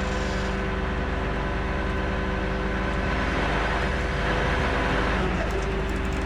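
Tow truck engine running at a steady speed, a constant mechanical drone with a faint steady whine above it.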